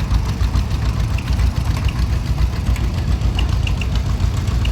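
Tractor engine running steadily with a low, pulsing rumble.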